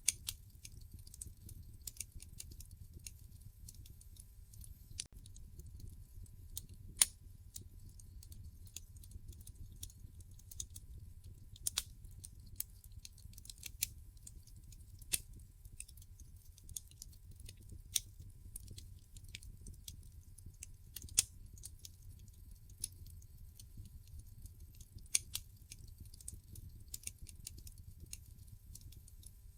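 Wood fire burning in a fireplace, crackling with irregular sharp snaps and pops, several of them much louder than the rest, over a low steady rumble.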